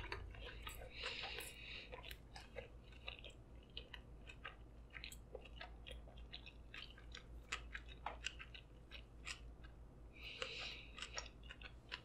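Faint, close-miked chewing of a mouthful of sushi roll: many small wet smacks and clicks of the mouth with light crunching, going on steadily.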